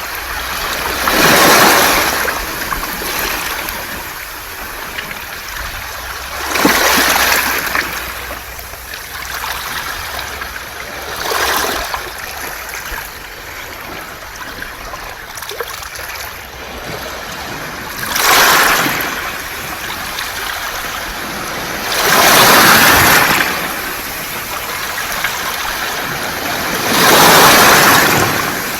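Waves washing in and out over a beach of smooth round pebbles, six surges a few seconds apart, each swelling to a hissing wash and fading back.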